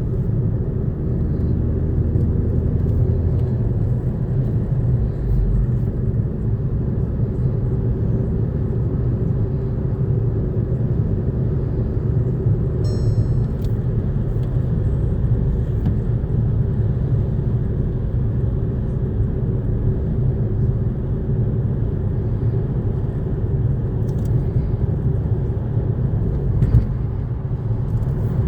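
2012 Volkswagen GTI's 2.0-litre turbocharged four-cylinder on the move: a steady low engine and road rumble, with the engine note rising in the first few seconds. A short high-pitched beep sounds about halfway through.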